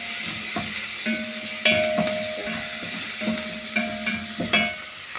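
Onions sizzling as they fry in hot olive oil in a sufuria, an aluminium cooking pot. A spoon stirring them knocks against the pot about seven times, and the pot rings briefly after several of the knocks.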